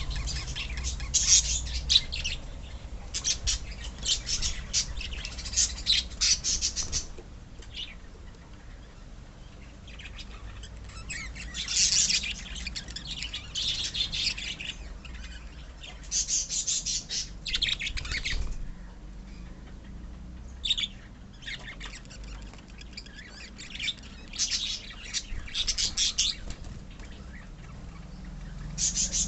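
A colony of pet lovebirds chirping in dense, high-pitched bursts, with quieter spells between the busy stretches.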